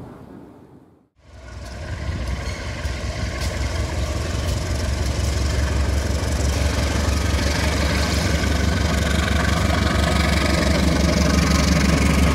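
Diesel-electric locomotive, a KAI CC 201, with its engine drone growing steadily louder as it approaches. The sound starts about a second in, after a brief drop to silence.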